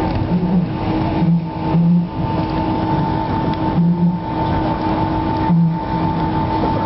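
Steady hum of a parked Boeing 757's cabin, with two constant tones over a broad rush of air. Short low tones come and go throughout.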